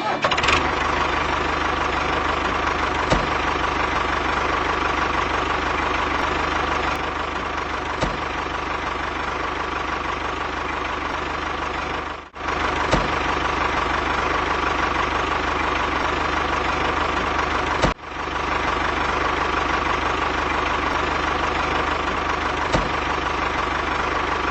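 A small machine's motor running steadily with a constant whine, broken twice by brief drop-outs.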